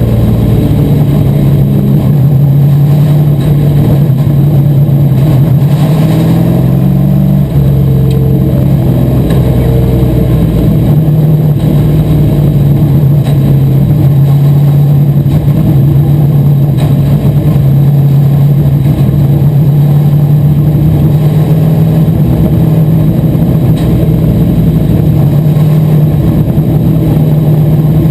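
Asphalt modified race car's V8 engine running at speed, loud and steady, its pitch rising briefly about six seconds in and then holding even.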